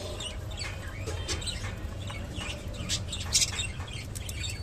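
Budgerigars giving short, scattered chirps and chattering calls, with a louder cluster of chirps about three seconds in.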